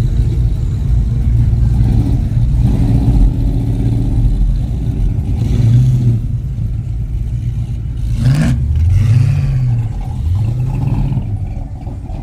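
A car engine revving in several short blips, its pitch rising and falling, over a steady low rumble.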